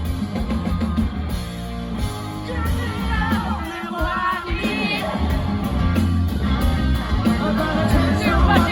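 Rock band playing live, amplified through a festival sound system, with drums, bass, electric guitar and singing.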